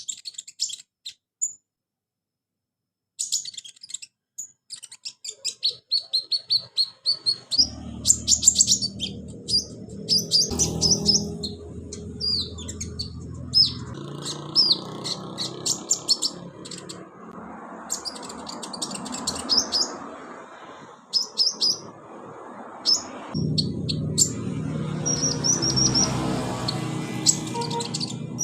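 Olive-backed sunbird (konin) song: rapid high chirps and trills, starting after a brief pause about three seconds in. A low steady hum runs underneath from several seconds in, dropping out briefly near the end.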